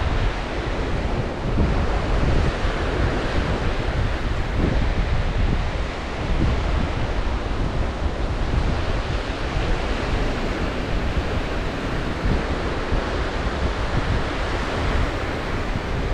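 Black Sea waves washing onto the shore in a steady surging rush, with strong wind buffeting the microphone as a low rumble.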